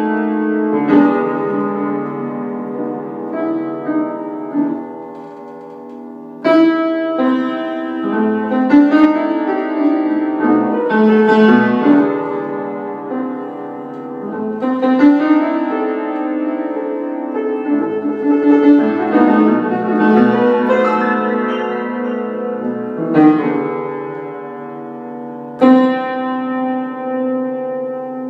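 Piano playing an instrumental passage of chords and melody, the struck chords left to ring and fade; loud chords are struck about six and a half seconds in and again near the end.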